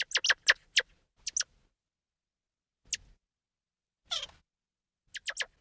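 A small animal calling in short, high-pitched squeaks and chirps that come in quick clusters with pauses between, including one longer squeal that falls in pitch about four seconds in.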